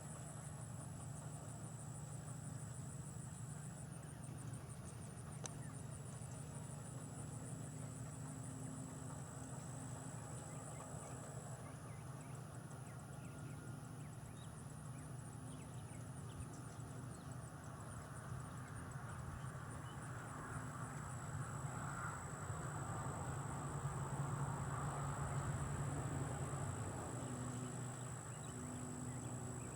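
John Deere 7200R tractor running steadily under load as it pulls a peanut digger, its low engine hum swelling louder about two-thirds of the way through, then easing. A high, steady trilling sits above it.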